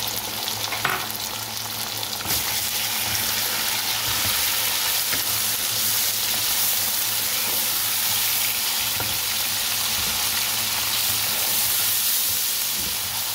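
Raw, unboiled minced meat, fried onions and chopped tomatoes sizzling in hot oil in a wok while a wooden spatula stirs them. The sizzle grows louder about two seconds in.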